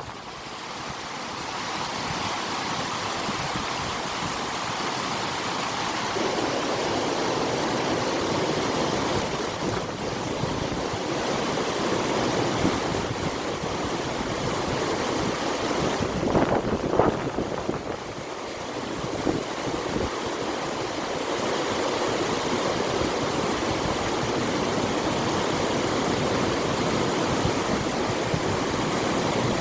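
River water rushing with wind: a continuous even noise that fills out a little about six seconds in. A brief higher-pitched sound cuts through about sixteen seconds in.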